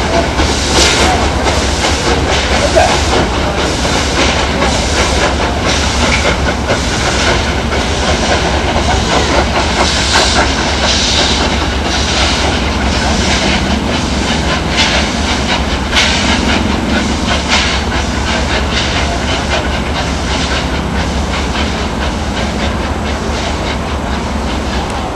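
Small train running along the track: wheels clattering over rail joints in an uneven rhythm, with a steady hiss.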